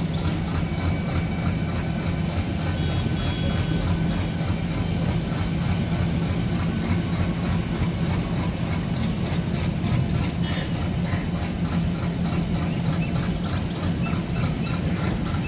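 Train running: a steady low engine drone with a rumbling noise over it.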